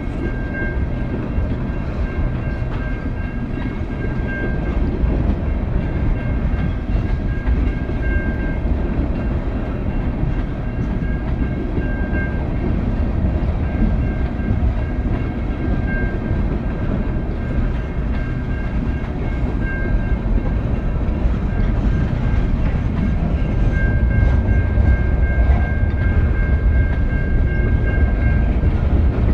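Freight train cars rolling past at a grade crossing: a steady, deep rumble of steel wheels on the rail that grows louder in the last few seconds. A faint, high, steady ringing tone rides over it, swelling and fading every few seconds.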